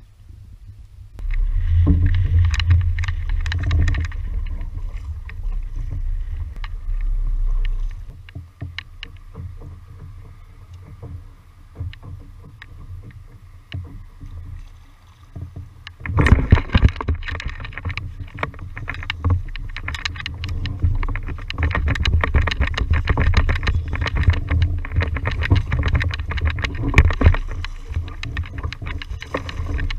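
Water and wind noise around a fishing kayak, with a heavy low rumble on the microphone and scattered knocks. It grows louder and busier about halfway through.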